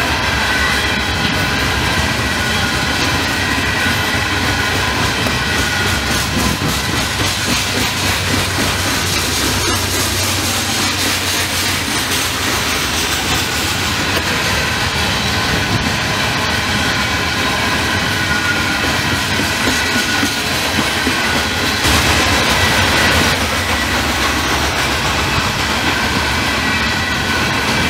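Loaded coal hopper cars of a freight train rolling steadily past at close range, a continuous rumble with the wheels clicking over the rail joints. It gets briefly louder about 22 seconds in.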